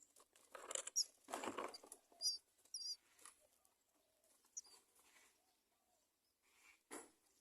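Common myna chicks in the nest: bursts of rustling and fluttering, with three short, wavering high chirps in the middle.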